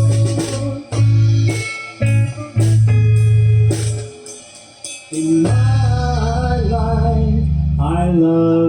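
Live rock band playing a blues-style instrumental passage: electric guitar and bass guitar with sharp full-band hits in the first half, then a held bass under a wavering sustained melody line.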